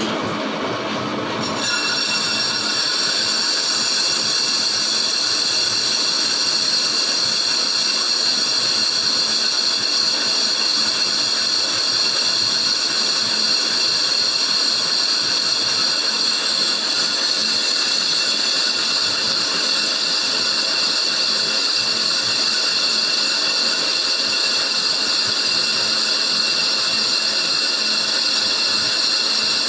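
Lathe skimming a Suzuki APV brake disc: the cutting tool scrapes the spinning rotor face with a steady, high-pitched metallic squeal that comes in about one and a half seconds in.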